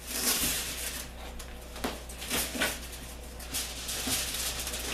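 Aluminium foil crinkling and tearing as a homemade tinfoil oven box is pulled apart by hand: irregular crackling rustles, with louder crunches about a third of a second in and around two and two and a half seconds.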